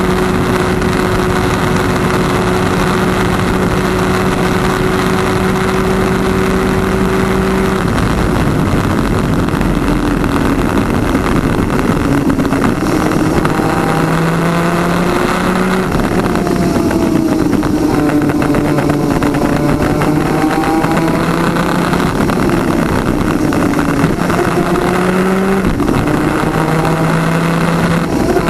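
PVP twin-cylinder 250cc two-stroke superkart engine running at high revs, holding one steady pitch for about eight seconds, then dropping and climbing in pitch again and again through braking, gear changes and acceleration.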